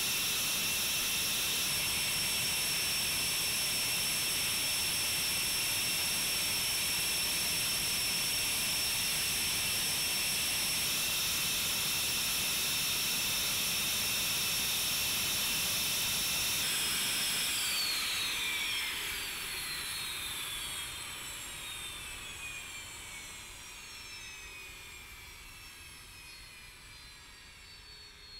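Panavia Tornado GR4's twin RB199 turbofans giving a steady high whine. From about two-thirds of the way through the engines spool down, the whine falling in pitch and fading as they shut down.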